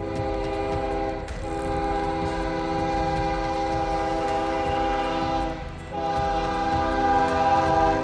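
Train horn sounding long, steady blasts, a chord of several tones, with short breaks about a second in and just before six seconds, over the low rumble of the train.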